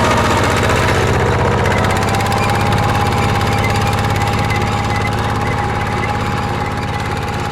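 Mini tractor engine running steadily, with a steady whine over the engine note.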